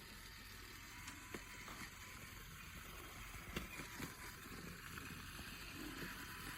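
Battery-powered toy train running on its track: a faint steady motor whir with a few soft clicks.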